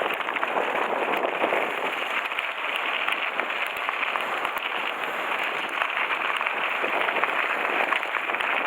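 Mountain-bike tyres rolling over a loose gravel road, a steady dense crackle of many small stone clicks.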